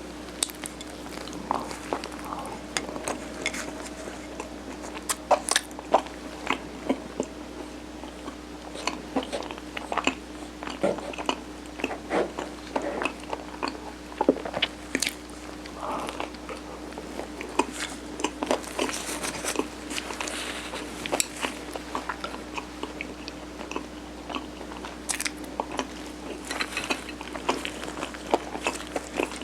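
Close-miked chewing and biting of mung bean sirutteok, Korean steamed rice cake, with many short irregular mouth clicks over a faint steady hum.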